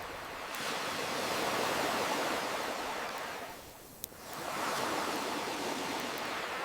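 Ocean waves washing ashore: a surge of surf swells and fades, then a second one builds. A single sharp campfire crackle pops about four seconds in, in the lull between the waves.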